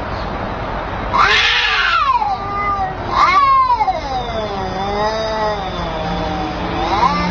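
Domestic cat yowling in long, drawn-out calls that slide up and down in pitch. The two loudest come about one and three seconds in, followed by a longer, lower, wavering call.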